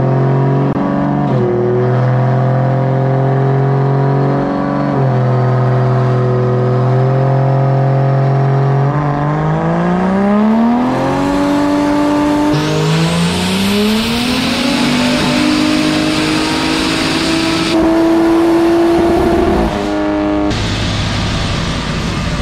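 Turbocharged Toyota 2JZ straight-six in a 4Runner running a full-throttle pull on a chassis dyno, on about 28 psi of boost. The engine holds a steady speed with two short dips, then its revs climb quickly. A loud hiss joins midway and stops a few seconds later, the revs keep rising, and near the end the throttle closes and the engine falls away.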